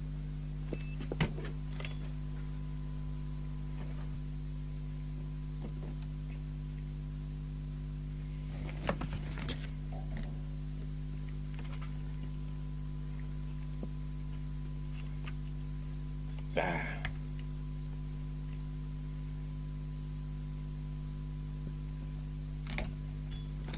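Steady electrical hum from powered bench test equipment, with a faint steady high tone over it. Now and then come small clicks and knocks from handling the radio and tools. The loudest is a short scratchy rustle about 17 seconds in.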